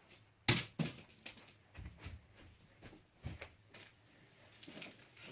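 A sharp knock about half a second in, followed by scattered softer knocks and rustles, like someone moving about and handling light objects.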